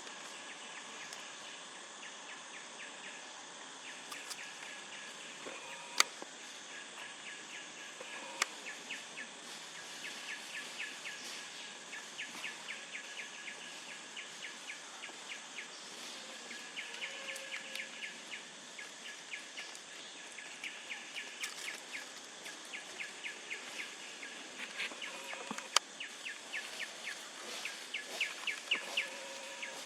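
Outdoor ambience with repeated runs of rapid, high-pitched chirping and a few sharp clicks.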